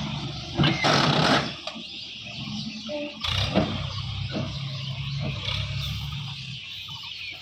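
Sonalika DI 750 RX tractor engine running steadily, with a loud burst of hissing noise about a second in and a shorter one past the middle.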